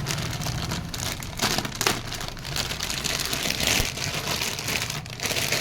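Crankshaft of a freshly rebuilt Bajaj CT 100 engine being turned by hand in its crankcase: a continuous rattly, crackling clicking with a few sharper knocks, over a steady low hum. The crank turns freely on its new bearings with nothing knocking.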